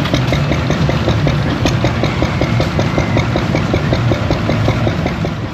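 An engine idling with a steady, even beat of several strokes a second.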